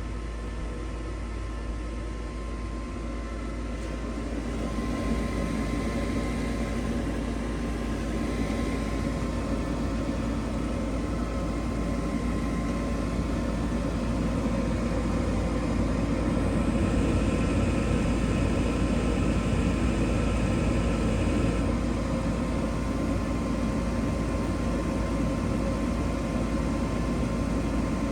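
Draft inducer fan motor of a 2019 Carrier Performance Series 80% gas furnace starting up and running, a steady hum with several fixed tones that grows louder over the first several seconds. A higher hiss joins for a few seconds past the middle.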